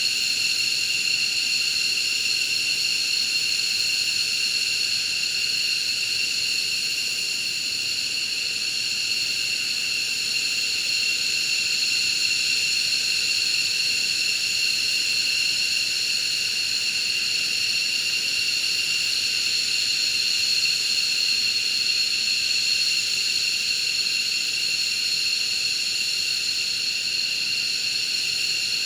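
F-15J fighter's twin turbofan engines idling on the ground, a steady high-pitched whine made of several tones over a hiss.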